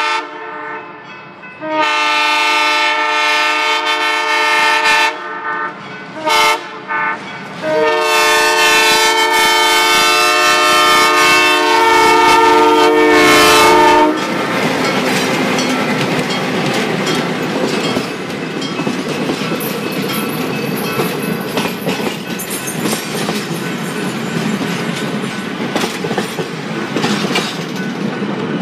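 Diesel locomotive's air horn sounding a chord for the grade crossing: a long blast, a couple of short toots, then a long blast of about six seconds that cuts off as the locomotive draws level. The diesel and its passenger coaches then roll past with a steady rumble and the wheels clicking over the rail joints.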